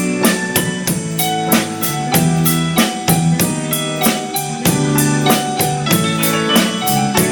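Instrumental break of a Thai pop song played by a band, with no singing: a drum kit keeps a steady beat under sustained chords.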